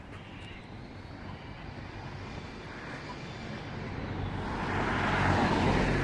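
An engine-driven vehicle approaching, its noise growing steadily louder over several seconds, with a low engine hum under a broad rushing sound.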